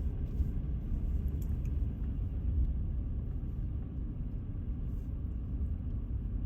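Steady low rumble of a vehicle driving slowly, engine and tyre noise heard from inside the cabin.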